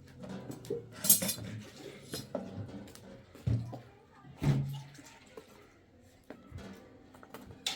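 Dishes and cutlery clattering and clinking as they are handled, in several separate knocks a second or so apart.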